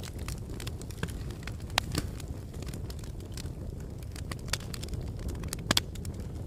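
Wood fire burning in a fireplace: a steady low rumble of flames with irregular sharp crackles and pops, the loudest about two seconds in and near the end.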